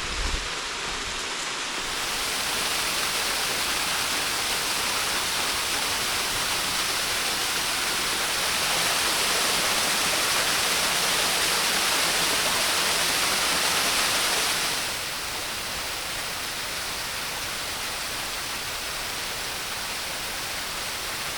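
Steady rush of a waterfall, the water noise stepping louder about two seconds in and again around eight seconds, then dropping suddenly to a lower level near fifteen seconds.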